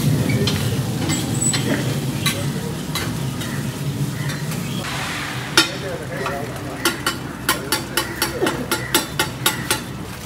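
Oyster omelette frying in a wok, sizzling over a low rumble, with a metal spatula scraping the pan. In the second half it turns to a quick series of sharp taps on the wok, about three a second.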